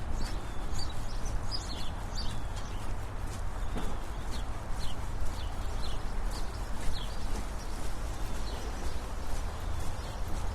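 Brisk, even footsteps on a paved sidewalk, with short high chirps of birds scattered throughout and a steady low traffic rumble underneath.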